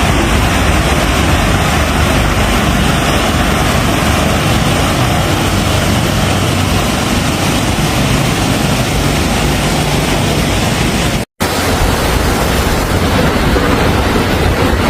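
Fast floodwater rushing, a loud steady noise heavy in the low end. It drops out suddenly for a split second about eleven seconds in, then carries on.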